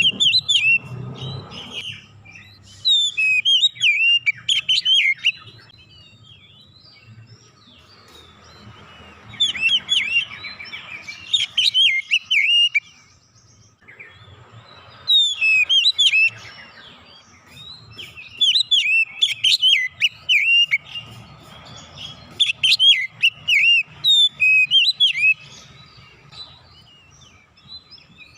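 Oriental magpie-robin singing: repeated bursts of quick, high whistled and chattering notes, each a few seconds long, separated by short pauses.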